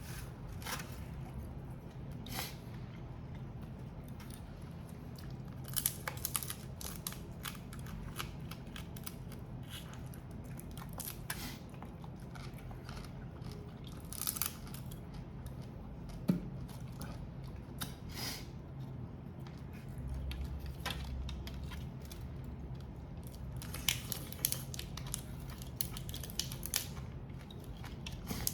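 Shellfish being eaten: scattered crunches and clicks of grilled prawn and crab shells being cracked and pulled apart, with chewing, over a steady low hum.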